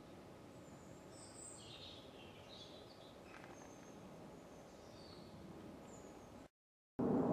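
Woodland ambience: small birds chirping faintly, high-pitched, a cluster of calls about one to two and a half seconds in and a few single chirps later, over a soft steady background hiss. The sound cuts out abruptly near the end.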